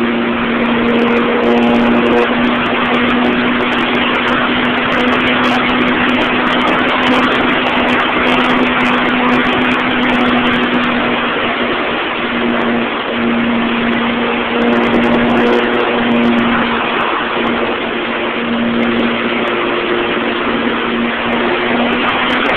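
Model airplane's motor and propeller droning at a steady pitch, heard from a phone strapped beneath the plane, under a loud rush of wind across the microphone in flight. The drone wavers and dips briefly a few times.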